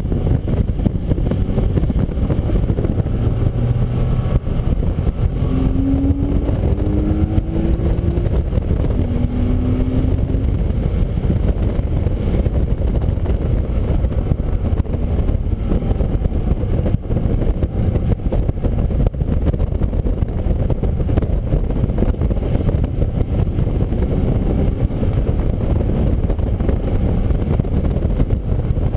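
Car lapping a wet race track, heard from an onboard camera: a steady low rumble of engine, road and wind noise. A few short rising engine notes come through about five to ten seconds in.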